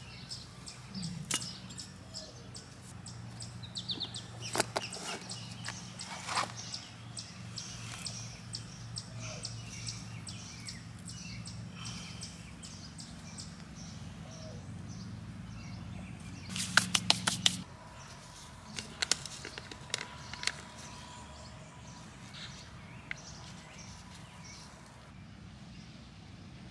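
Songbirds chirping and calling throughout, over a steady low hum that stops about two-thirds through. Just before the hum stops comes a quick run of loud sharp clicks.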